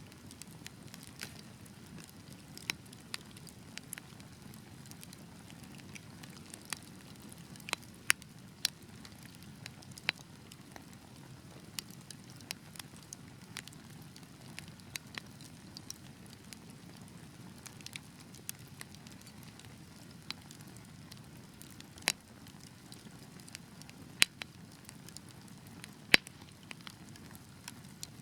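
Wood fire burning with a steady low rush and irregular crackles, with a few sharp louder pops.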